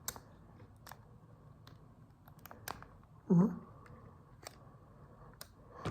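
Scattered light clicks and taps of small parts being handled as a phone display's flex cable is threaded through the phone body. About three seconds in there is a short hum from a man's voice.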